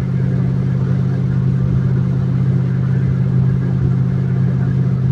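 Ford Torino's engine and drivetrain droning steadily while the car drives along at an even speed.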